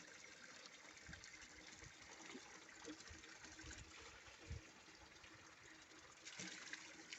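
Faint steady running water, with a few soft low thumps.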